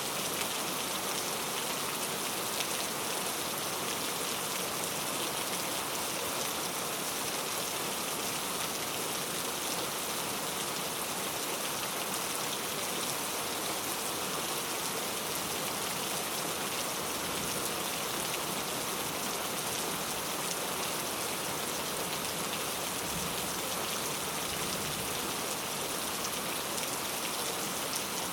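Steady rain falling, an even, constant hiss of many drops with no thunder or changes in intensity.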